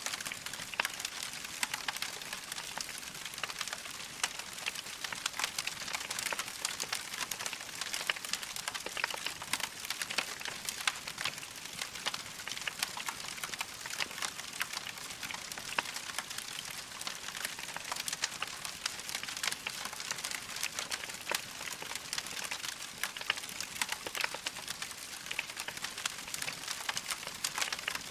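Wood fire crackling in a fireplace: a dense, steady stream of small pops and snaps.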